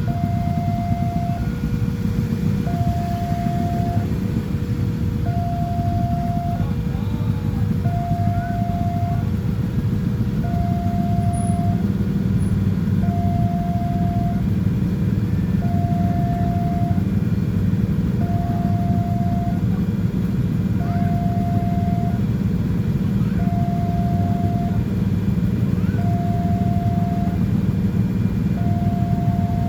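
Railway level crossing warning alarm sounding its two-tone signal, a higher and a lower tone alternating about every second and a bit, which means a train is due and the crossing is closed. Under it runs a steady low rumble.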